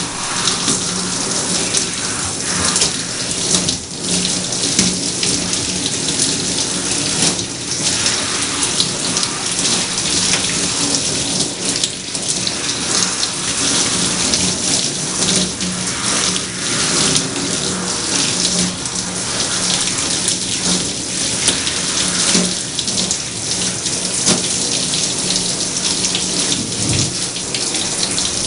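Tap water running steadily and splashing, with a low steady hum beneath it.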